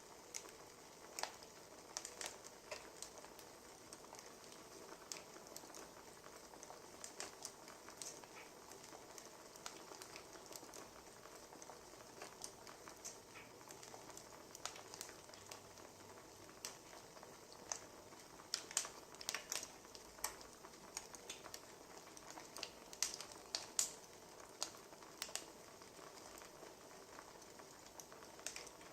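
Wood fire crackling: a faint steady hiss with irregular sharp snaps and pops from the burning logs, busiest in the second half.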